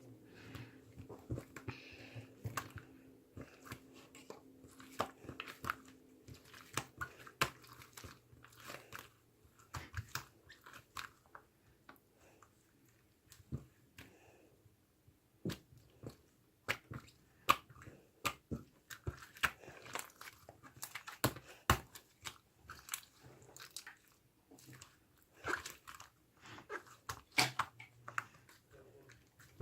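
Hands squeezing and pressing a firm pearlescent gel-slime block, giving irregular sharp clicks and short wet squishes.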